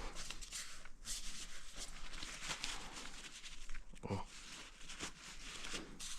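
Irregular rustling and rubbing as soft material is handled and stuffed into the motorcycle's open intake throats, with a brief knock about four seconds in.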